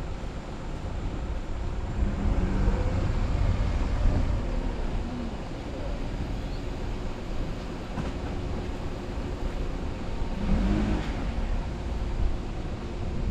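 A car being driven: a steady low engine and road rumble, with the engine note rising and falling briefly twice, once about two seconds in and again near the end.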